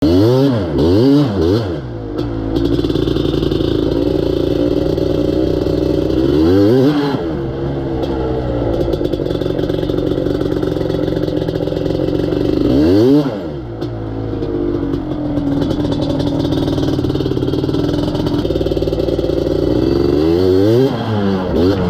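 250cc two-stroke off-road engine running under way, mostly at a steady speed, its pitch dropping sharply and climbing back a few times as the throttle is backed off and opened again.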